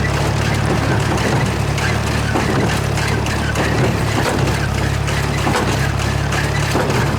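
Tractor engine running steadily while it drives a hay baler through its PTO, baling leaves.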